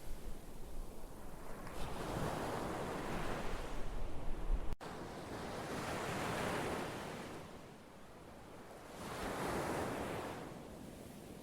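Ocean surf: waves washing in as a rushing noise that swells and fades about every three to four seconds. A brief dropout comes near the middle, and after it the low wind-like rumble underneath is gone.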